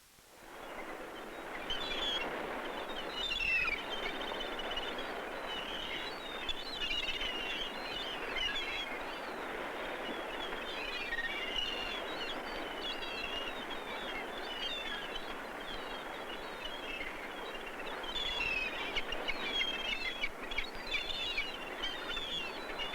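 A flock of gulls calling, many short overlapping cries over a steady rushing background noise; the sound fades in during the first second or so.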